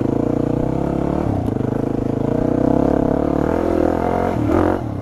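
Yamaha WR250 dual-sport dirt bike's engine running under changing throttle as it is ridden through mud, the pitch rising and falling, with a brief sharp rev near the end.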